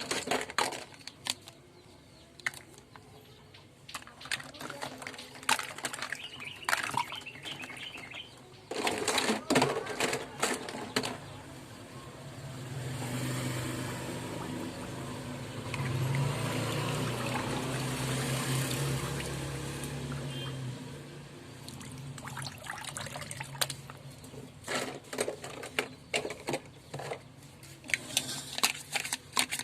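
Plastic bath toys clattering and knocking against each other and a hard surface, with water running over them for about ten seconds in the middle, then more toy clacks near the end.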